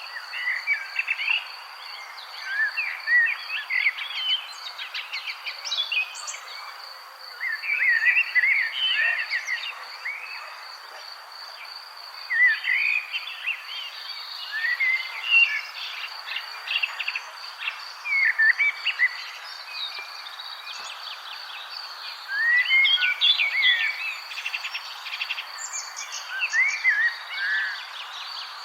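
Songbirds singing short warbling phrases every few seconds over a steady high-pitched insect trill, with a constant hiss of outdoor background noise.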